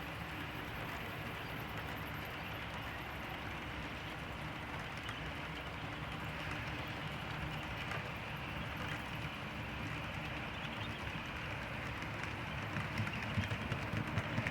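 HO scale model train rolling along the track with its sound decoder muted: a steady rumble from the wheels and motors, with fine rhythmic clicking over the rail joints that grows a little louder near the end.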